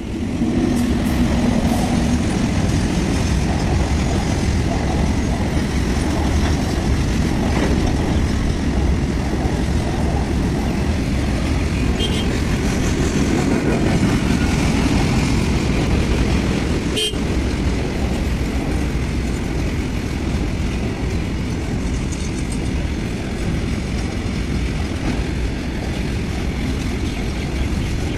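Freight train of BTPN petrol tank wagons rolling past at a level crossing: a steady, loud rumble and rattle of wheels on rail, with one sharp click partway through.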